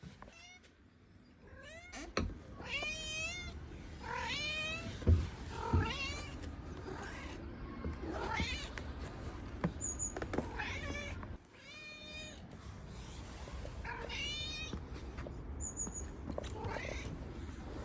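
A stray cat meowing over and over, about ten meows spread through, each rising and falling in pitch. There are a couple of sharp knocks, the loudest about five seconds in.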